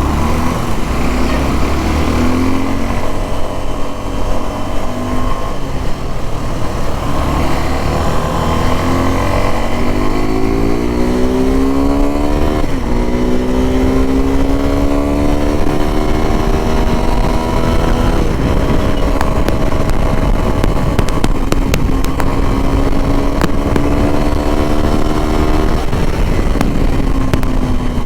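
Suzuki V-Strom SX 250's single-cylinder engine pulling on the highway, its pitch climbing as the revs rise and dropping sharply at gear changes, several times. A constant low wind rumble runs underneath.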